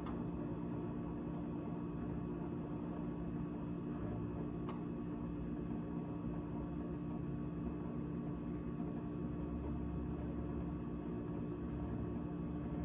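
GE GTH18XCTZRBB refrigerator running after its defrost (heat) cycle: a steady hum with several steady tones, and one faint tick just under five seconds in.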